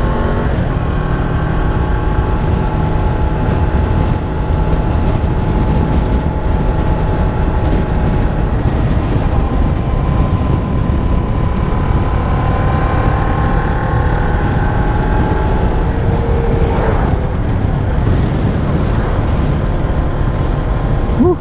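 Motorcycle engine running at road speed with heavy wind rush on the microphone, its pitch drifting slowly up and down through the bends.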